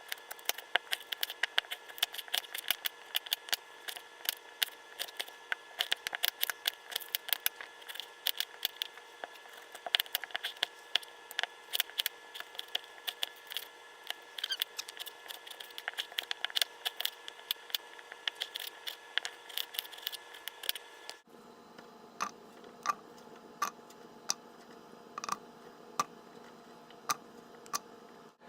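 Rapid, irregular light clicks and scrapes of kitchen food preparation for a crock-pot potatoes-and-ham dinner, over a faint steady hum. After a cut about twenty seconds in, the clicks come more sparsely.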